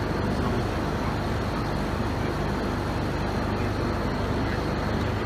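Window air conditioner running with a steady hum, just switched on with new rubber mounts fitted under its compressor.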